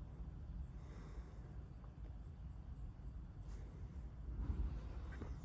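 Night insects, crickets or katydids, trilling in a faint high pulse about three times a second over a steady low rumble.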